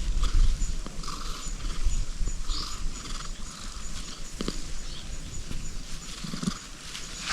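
Tabby cat purring gently while its head is scratched: a low, pulsing purr, strongest in the first second and softer after.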